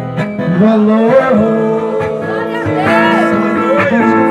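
Gospel song sung in Portuguese over acoustic guitar accompaniment; the singer holds a long note on the word "valor" with vibrato.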